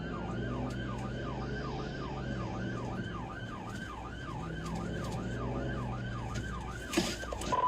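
Police car siren in yelp mode during a pursuit: rapid rising-and-falling sweeps, about four a second, with the cruiser's engine humming underneath. A sharp click stands out about seven seconds in.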